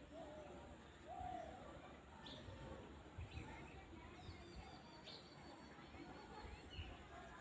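Faint rural outdoor ambience with distant bird calls: two short, low, hoot-like calls in the first second and a half, then a few faint high chirps, over a steady low rumble.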